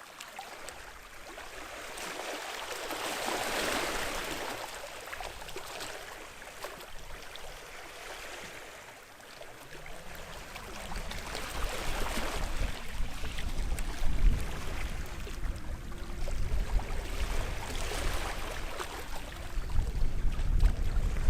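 Small sea waves washing onto the shore, swelling and fading every few seconds. From about halfway a low, uneven rumble joins in.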